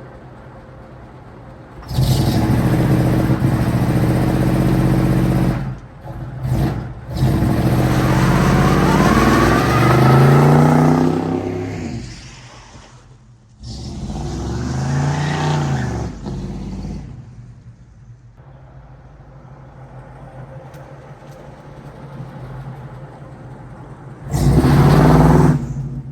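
V8 engine of a 1989 Chevrolet Caprice Classic, its 307, running through aftermarket pipes: it idles and is revved four times. The rev-ups come about two, seven and fourteen seconds in, each rising in pitch and falling back to idle, with a short last blip near the end.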